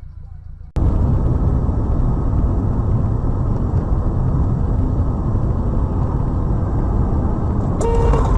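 Loud, steady rumble of road and engine noise from a moving car, cutting in abruptly under a second in, with a brief pitched tone near the end.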